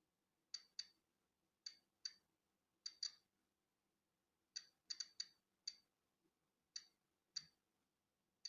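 Polon EKO-C digital Geiger counter clicking at irregular, random intervals, about a dozen sharp clicks, some in quick pairs. Each click is one detected particle of natural background radiation.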